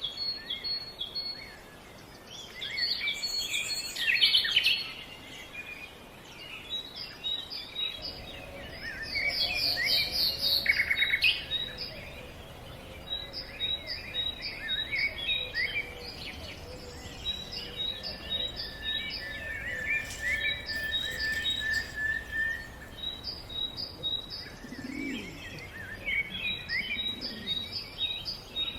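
Several songbirds singing and calling together: overlapping chirps, trills and whistles, with a run of short, high, repeated notes through the second half.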